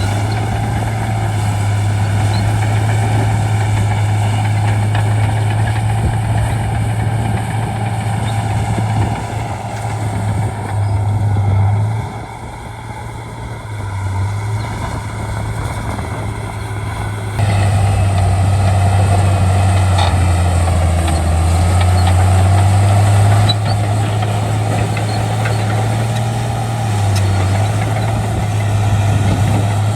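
Shantui D95 crawler bulldozer's diesel engine running under varying load, with a deep steady hum that eases off about twelve seconds in and then comes back up sharply a few seconds later.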